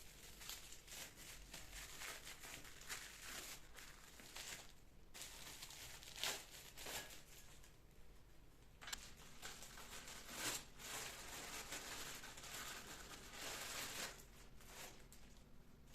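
Packaging handled by hand: faint, irregular crinkling and rustling, with a few brief louder handling sounds.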